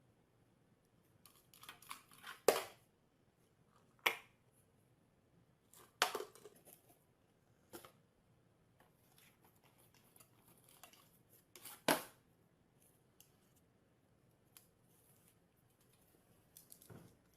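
A few scattered sharp clicks and crinkly rustles, the loudest about two and a half seconds in and again about twelve seconds in, with quiet between them.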